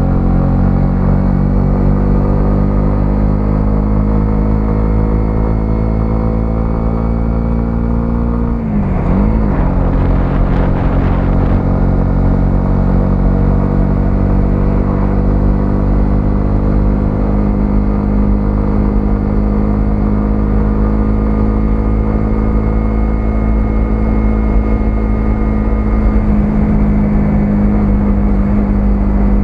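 A 125cc single-cylinder motorcycle engine running under way. Its note slowly rises, dips and wavers about nine seconds in, then holds steady.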